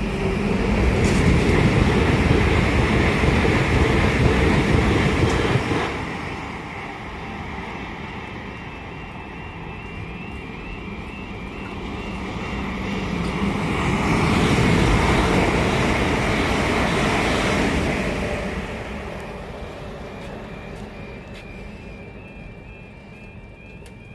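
Train running past on the main line, loud for the first six seconds, easing off, then rising again about twelve to eighteen seconds in before fading away.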